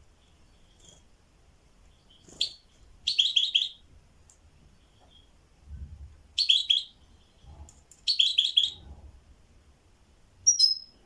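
A small songbird singing short bursts of quick, repeated chirping notes, four phrases with pauses between them, then one sharp high note near the end.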